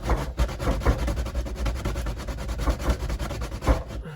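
Candle wax being grated on a cheese grater: a rapid run of rasping scrapes, with a few heavier strokes.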